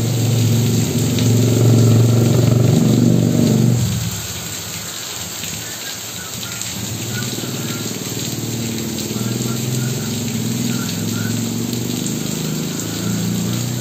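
Steady rain falling on trees, roofs and the road, a continuous hiss. Under it runs a low engine hum that is loud for the first four seconds, drops away sharply just before four seconds in, then returns fainter.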